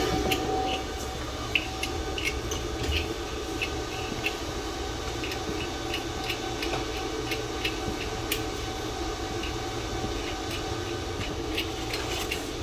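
Steady low hum of shop background noise with scattered light clicks and taps.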